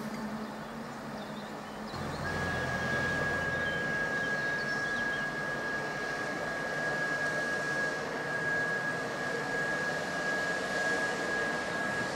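High-speed train running past on the line, a steady rushing noise with a steady high whine. Both start and get louder about two seconds in.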